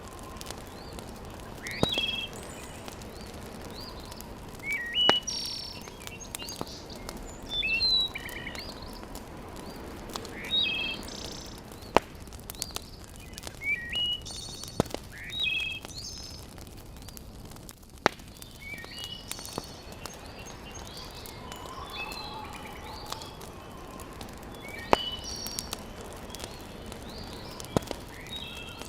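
Wood fire crackling in a fireplace, with a sharp pop every few seconds, while small birds chirp in short repeated phrases.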